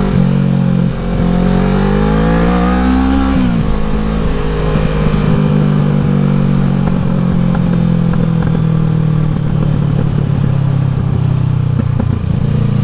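2016 Kawasaki Ninja 650's parallel-twin engine climbing in revs for about two seconds, then dropping sharply and running at a steady note, with constant wind noise over it.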